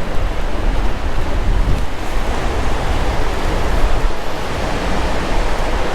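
Ocean surf and wind on the microphone: a loud, steady rushing noise with a heavy, fluctuating low rumble.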